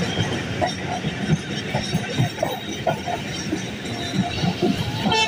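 Passenger train running on the rails: a steady rumble with irregular clatter from the wheels, and a brief pitched squeal right at the end.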